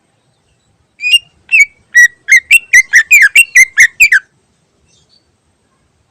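Greater green leafbird (cucak ijo) singing a rapid series of about a dozen loud, clear whistled notes, each slurring down in pitch. The notes speed up to about four a second, then stop abruptly after about three seconds.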